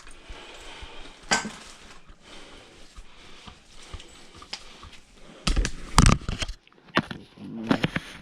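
Scattered clicks and knocks of dryer parts and tools being handled during a repair, with a louder cluster of knocks about six seconds in and more near the end.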